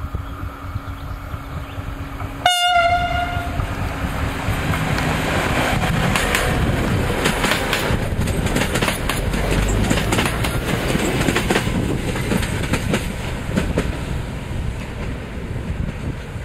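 Regional diesel railcar sounding its horn once, a single steady tone of about a second, then running past with its wheels clicking over the rail joints. It grows loudest midway and fades as it moves away.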